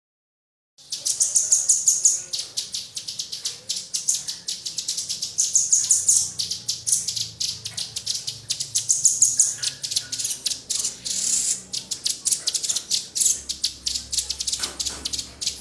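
Small songbirds calling in dense, rapid strings of sharp, high-pitched chirps and chatters, starting abruptly about a second in after silence.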